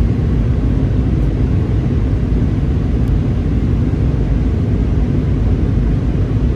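Airbus A320 cabin noise: the steady low rumble of engines and airflow heard from inside the passenger cabin, with a faint steady hum underneath.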